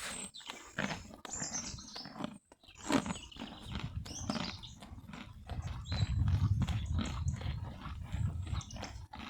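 Donkeys chewing carrots close to the microphone: a run of irregular crunches, with a low rumble in the second half.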